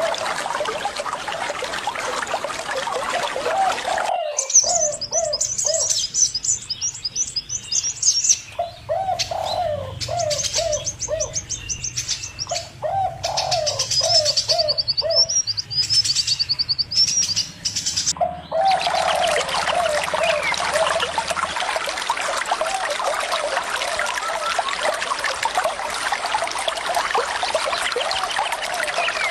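Doves cooing in repeated short phrases of four or five notes, with a small bird's rapid high chirping in the middle stretch. Running water can be heard under them; it stops about four seconds in and comes back about two-thirds of the way through.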